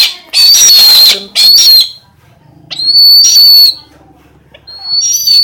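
Pet eagle calling: four loud, shrill, high-pitched screams, each about half a second to a second long, with short pauses between.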